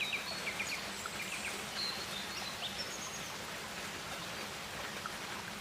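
Rainforest ambience: a steady background hiss with short, high bird chirps in quick runs, mostly in the first second or so.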